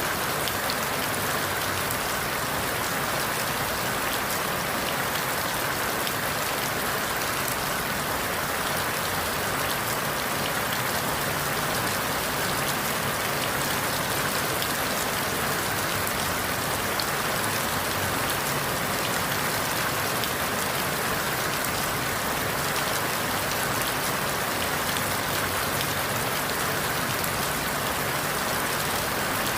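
Steady rain falling on forest leaves: an even hiss with faint scattered drop ticks.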